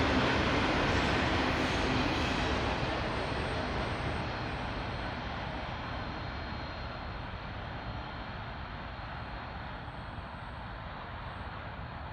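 Norfolk Southern freight train rolling past, a steady rumble of wheels and cars that fades gradually as the train moves away.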